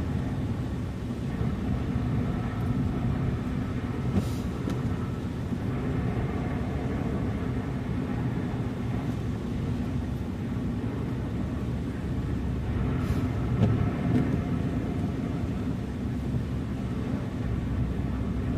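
Car driving steadily: a continuous low rumble of engine and tyres on the road, with a brief hiss about four seconds in and again about thirteen seconds in.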